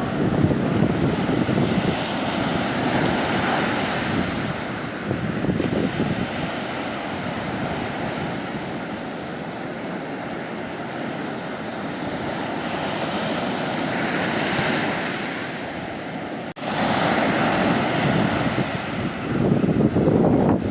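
Mediterranean sea waves breaking and washing up the beach, the surf swelling and easing in repeated surges.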